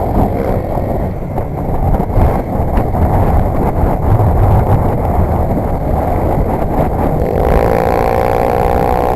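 Motorcycle engine running under heavy wind rush while riding. About seven seconds in, an engine note rises steadily in pitch as it accelerates.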